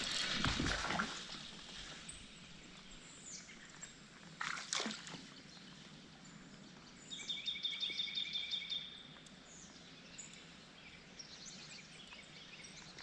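Faint river ambience with water sloshing around a kayak and a few high bird calls. There is a splash in the first second and another about four and a half seconds in, and a rapid ticking with a high whine for about two seconds in the middle.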